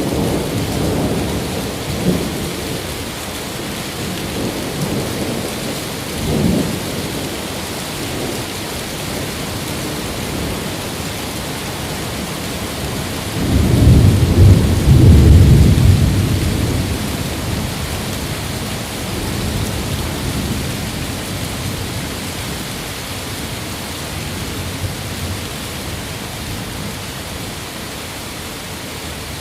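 Steady rain with rolling thunder. There are low rumbles near the start and again about six seconds in. The loudest peal comes from about 13 to 17 seconds in and fades slowly after it.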